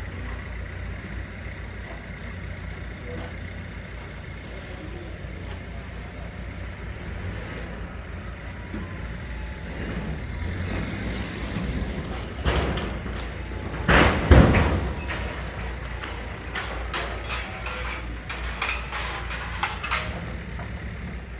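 Daewoo DE12TIS inline-six diesel engine running steadily with an even low rumble, with a few loud knocks or clatters in the middle.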